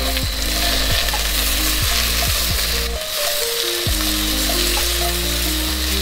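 Food sizzling as it fries over a fire-pit stove, with background music playing a stepping bass line that drops out briefly about three seconds in.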